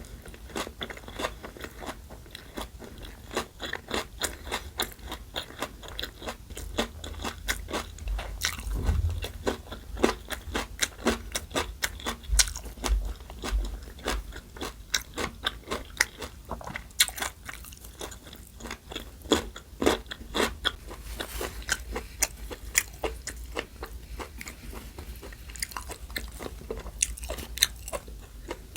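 Close-miked eating: a person chewing and biting food, with many quick, irregular crunches a second and a few low thumps.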